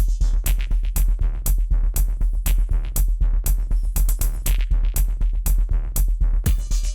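Rough ethno-techno-industrial electronic track: a steady drum-machine beat of about two hits a second, with lighter hits between them, over a constant deep bass drone.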